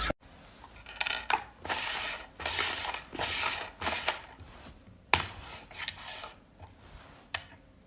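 Scraping and rubbing noises in short bursts, with a few sharp clicks, the loudest about five seconds in.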